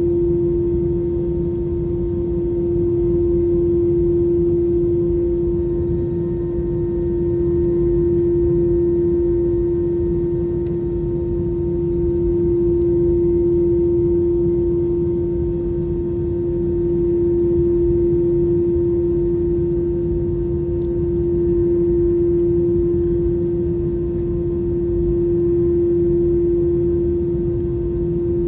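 Cabin hum of an Airbus A321 with its two CFM engines idling during taxi: a low rumble with a strong steady drone, slowly swelling and fading about every four to five seconds.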